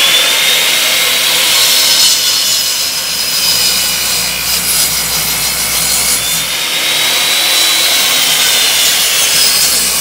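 Power saw cutting through freshly felled wood. The motor whine rises sharply as it starts, then runs steadily, sagging and picking up again about seven seconds in as the load on the blade changes.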